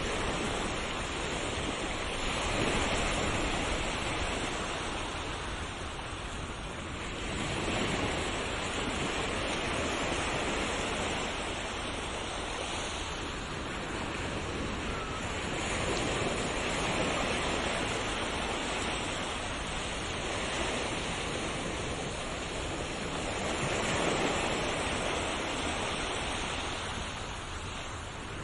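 Ocean waves breaking and washing onto shore, a continuous rushing surf that swells and eases every few seconds.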